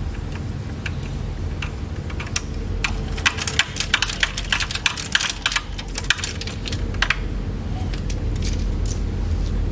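VW Beetle engine running steadily, with a quick run of light metallic clicks and rattles over it in the middle.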